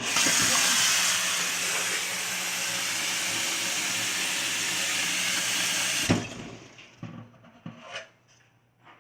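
Water running hard from a tap, turned on at once and shut off about six seconds in. A few faint knocks follow.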